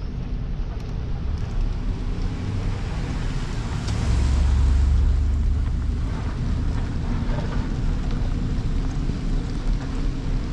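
Low rumble of wind buffeting the microphone while cycling, swelling about four seconds in.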